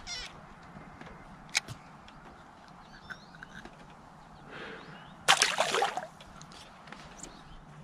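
Quiet outdoor background with a few faint bird chirps, a sharp click about one and a half seconds in, and a short, harsh bird call about five seconds in.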